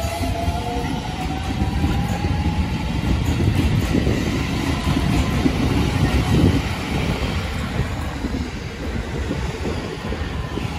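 Shin-Keisei 80000-series electric train pulling into the platform and slowing, its wheels rumbling and clacking on the rails. A faint whine fades out in the first few seconds, and the rumble is loudest about four to six seconds in, then eases.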